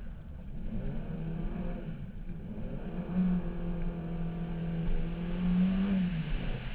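A slalom car's engine heard from on board, pulling under acceleration: its note wavers at first, then holds steady and climbs slowly for about three seconds before dropping off near the end.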